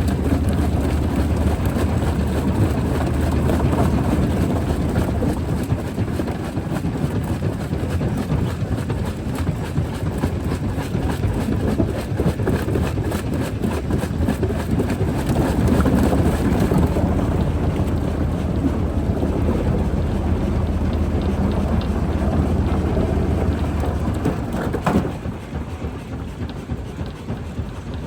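Rock crusher running: a steady, heavy mechanical din over a low engine drone. About 25 seconds in, a single sharp knock is heard, and after it the noise falls off.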